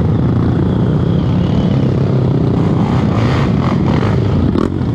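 Trail motorcycle engine running steadily, close and loud, with a few short knocks about three to four seconds in.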